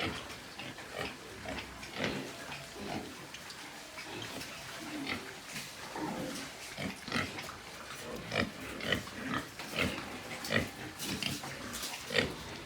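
Domestic pigs grunting in short, irregular grunts that come more often in the second half.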